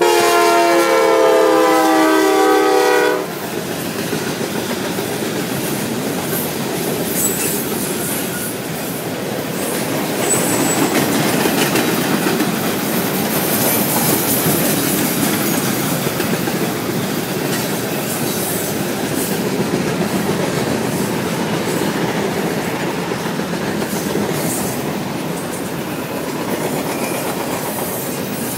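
CSX SD70MAC locomotive's air horn sounding a chord of several notes that cuts off about three seconds in. The cars of a manifest freight train then roll steadily past, with a rumbling and the clickety-clack of wheels over rail joints.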